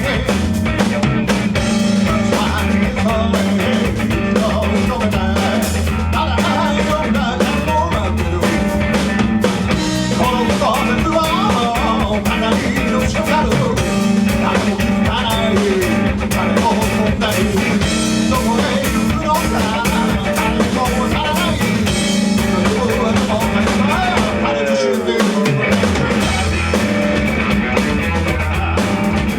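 Rock band playing live: a drum kit and guitars keep a steady groove, with a melody line gliding above it.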